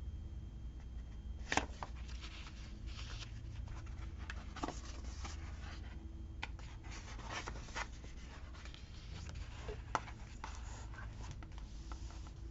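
Stickers and planner pages being handled: light rustling and scratching of paper, with a few sharp taps, the loudest about one and a half seconds in.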